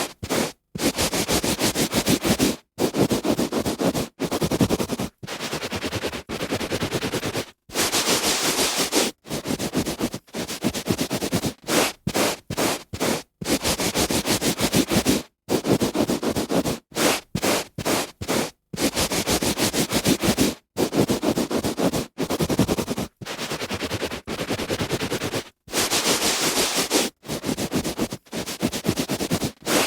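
A hand rubbing on a carpet: a string of strokes of uneven length, from brief swipes to rubs of a couple of seconds, separated by short silent breaks, a few of them brighter and hissier than the rest.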